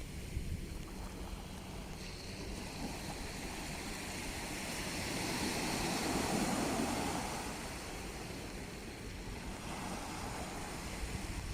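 Sea waves washing ashore as a steady rush, with one wave swelling up and breaking about halfway through.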